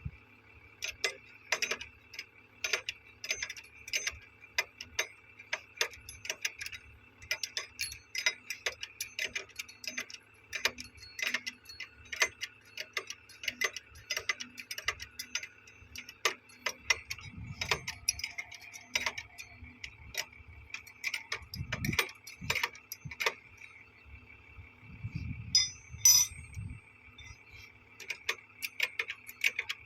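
Irregular sharp metallic clicks and taps, a few a second, as hand tools work on railway point machine fittings. A steady high-pitched drone runs underneath.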